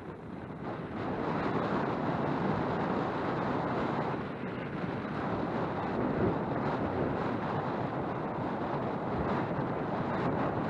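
Wind buffeting a helmet-mounted camera's microphone while riding a bike along a dirt trail, with the steady rumble of tyres and a few short knocks from bumps.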